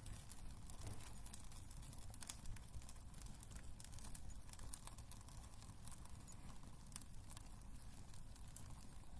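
Wood fire burning in a fireplace: a low rumble of the flames with many small irregular crackles and snaps of the burning wood.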